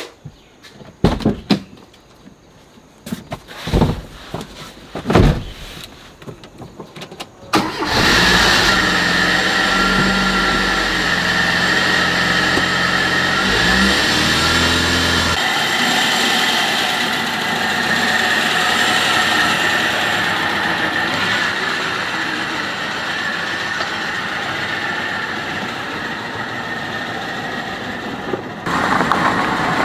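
Restored car's engine starting with a sudden burst after several sharp knocks, then running with a low steady note that rises briefly about 14 seconds in. About halfway through, the engine note gives way to a steady noise without pitch.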